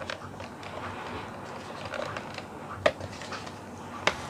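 Cardboard and clear plastic action-figure packaging being handled: soft rustling with a few sharp taps, the clearest about three seconds in and another just after four seconds.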